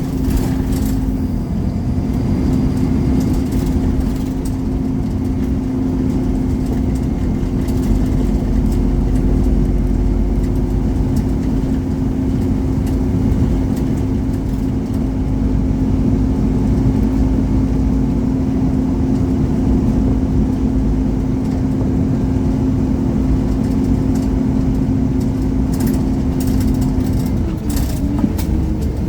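Scania Omnicity single-deck bus with its 230 hp Scania engine, heard from inside the bus while it drives at a steady pace. There is a constant rumble and a steady engine note. Near the end the note drops and shifts in pitch as the engine speed changes.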